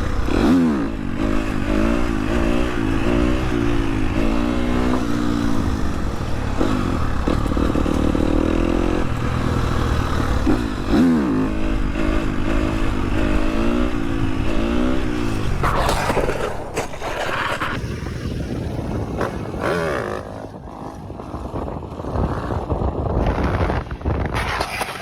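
Motorcycle engine accelerating through the gears, its pitch climbing and dropping back again and again over steady rush noise. About two-thirds of the way through, a few sharp knocks break in, and then the engine settles quieter.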